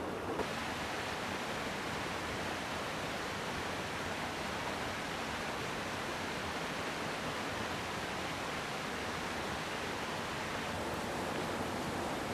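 Mountain stream rushing over rocks: a steady, even wash of water noise, its tone shifting slightly about half a second in and again near the end.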